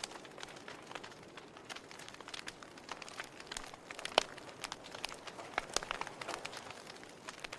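Wood fire burning in a fireplace, crackling with irregular sharp pops over a soft hiss; the loudest pop comes about four seconds in.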